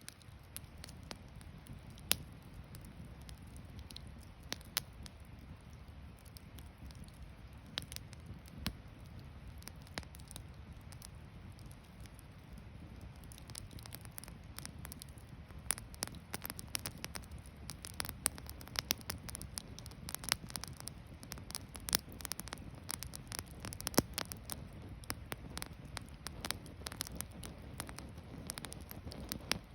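Wood campfire crackling: irregular sharp pops and snaps over a low steady rumble. The pops come more often in the second half.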